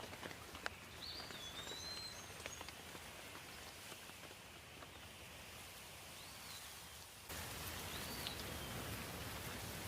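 Light rain falling: a steady soft hiss with scattered single drips in the first few seconds. Birds chirp briefly a few times. About seven seconds in, the background abruptly gets louder.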